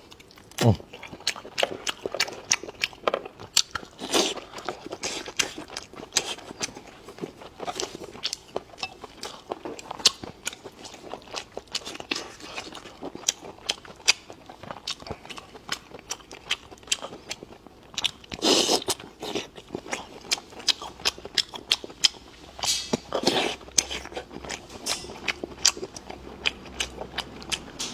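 A person chewing and crunching food close to the microphone: a dense run of rapid, irregular mouth clicks, with a couple of louder, longer bursts about two-thirds of the way through.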